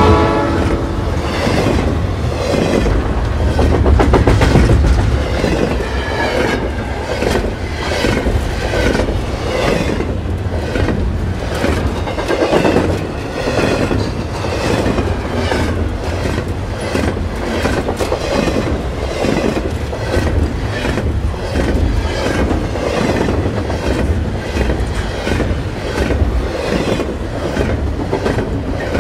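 Double-stack intermodal container train passing close by at speed: a steady rumble of the well cars on the rails, with repeated clicks as the wheels cross rail joints.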